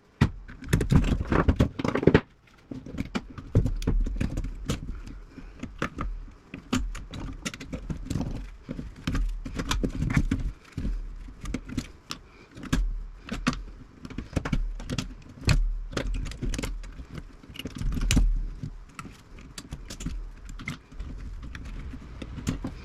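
Irregular metal clicks and clinks of pliers and snips working wire out of a steel radio chassis, with low knocks and rattles as the chassis is handled.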